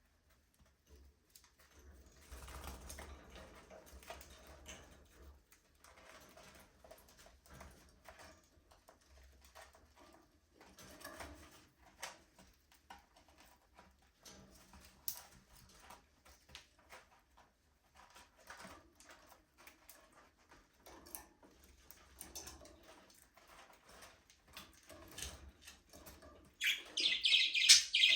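Budgerigars moving about, with quiet rustling, scattered clicks and wing flaps and a few soft calls, then a burst of loud chirping near the end.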